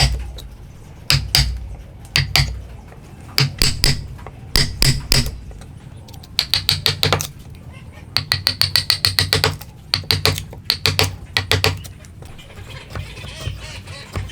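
Hammer striking a chisel while chopping dovetail joints by hand, with a metallic ring on each blow. The blows come in quick runs of several taps with short pauses between, and they stop near the end.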